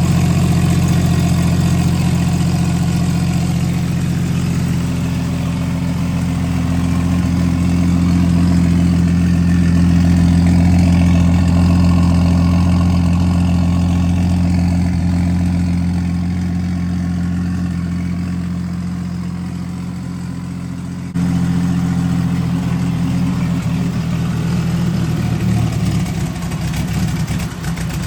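Turbocharged Jeep 4.0 inline-six idling steadily after a cold start. The level jumps suddenly about three-quarters of the way through, and the running turns rougher and less even near the end.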